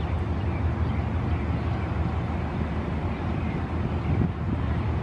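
Passenger train hauled by an Alsthom diesel-electric locomotive rolling past, a steady low rumble.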